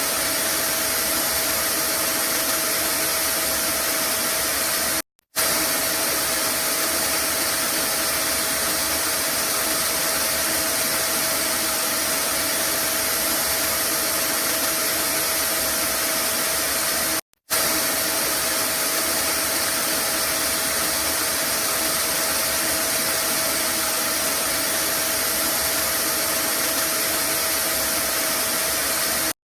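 Vacuum cleaner running steadily, a constant whooshing rush with a steady hum tone and a faint high whine, used as white noise. It cuts out for an instant twice, about five and about seventeen seconds in.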